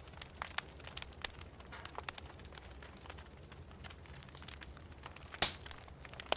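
Wood fire in a fireplace crackling: scattered sharp pops and snaps over a low steady rumble of the burning logs, with one louder pop about five and a half seconds in.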